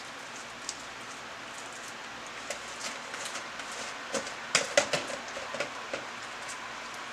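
Slime being kneaded and squished by hand: a run of sharp, wet clicks and pops, loudest in a cluster about four and a half to five seconds in, over a steady hiss.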